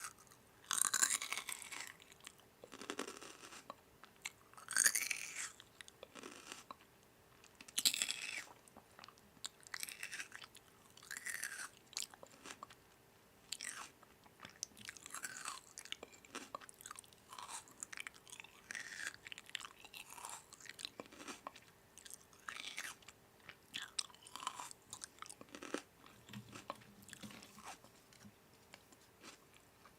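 A person biting, crunching and chewing food in an irregular run of crisp bites, loudest in the first few seconds.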